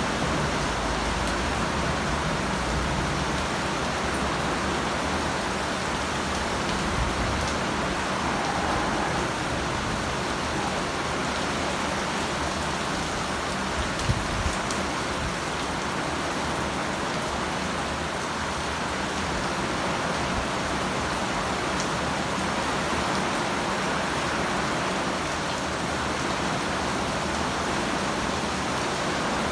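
Heavy rain pouring down, a steady dense hiss of rain, with a couple of brief low thumps about halfway through.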